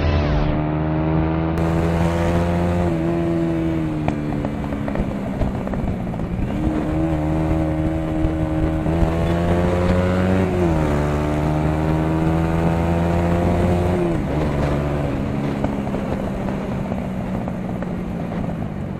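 Motorcycle engine running under way, its note climbing slowly and dropping several times as the rider works through the gears.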